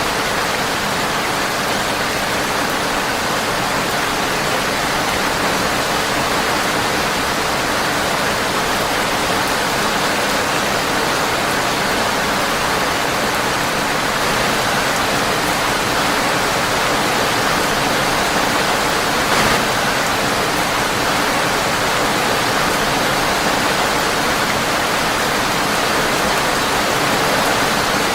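Steady, dense rain falling on a windowpane, an even rushing hiss. There is one brief sharp click a little past two-thirds of the way through.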